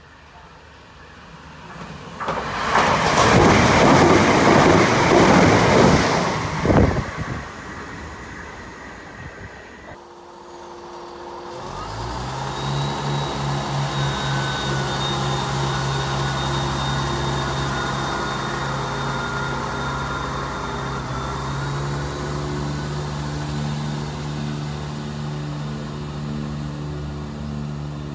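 Class 377 Electrostar electric train running past, loud for about four seconds with a sharp clack near the end, then fading. Then a Class 171 Turbostar diesel multiple unit's engines come in about twelve seconds in and keep running at a steady low pitch, with a faint high whine above.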